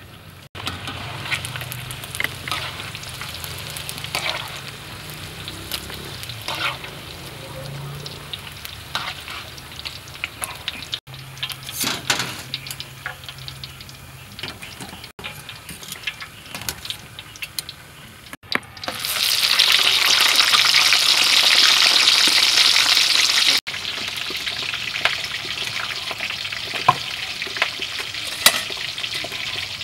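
Cooking sounds across several shots: food sizzling in hot oil, loudest as a strong sizzle for about five seconds past the middle, and a knife cutting raw meat on a wooden chopping block with light taps.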